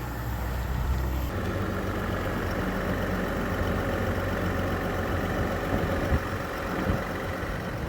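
A pickup truck's engine idling steadily.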